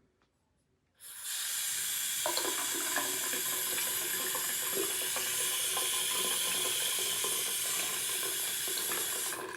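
Water from a waterfall-spout bathroom faucet pouring into the sink. It is turned on about a second in, runs steadily, and is shut off near the end.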